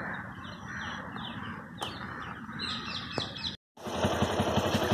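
A small bird repeating short, falling chirps, about three a second, over quiet open-air background. About three and a half seconds in the sound cuts out briefly, then an engine idles with a quick, even putter.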